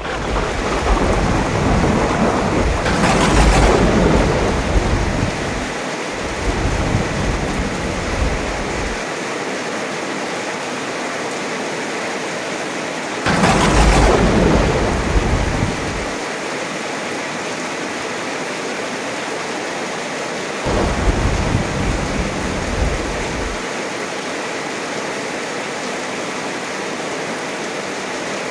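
Heavy rain falling steadily, with three rolls of thunder: a long rumble at the start with a sharp crack about three seconds in, a loud crack and rumble about thirteen seconds in, and a softer rumble around twenty-one seconds in.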